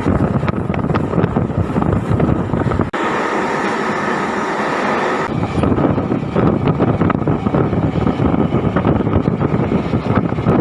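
MEMU electric train running at speed: a steady rumble of wheels on rail with frequent short clatters. For a couple of seconds about three seconds in, the low rumble drops out and a higher rushing hiss takes over before the rumble comes back.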